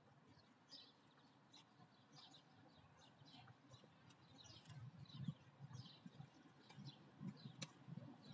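Faint songbirds chirping, many short high calls overlapping. In the second half, soft low thuds come in under them.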